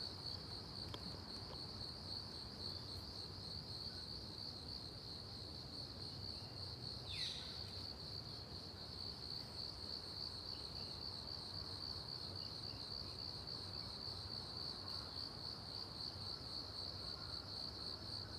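A cricket trilling continuously in a high, evenly pulsing note. About seven seconds in, a brief falling chirp cuts across it.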